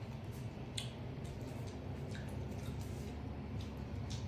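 Scattered soft, wet clicks of sweet corn kernels being chewed and handled, over a steady low hum.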